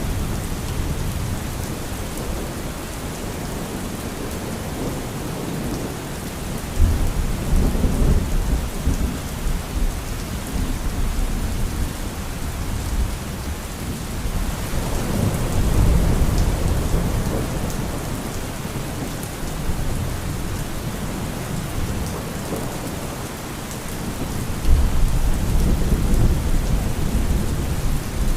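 Steady heavy rain, with low rolls of thunder swelling about a quarter of the way in, again around the middle, and near the end.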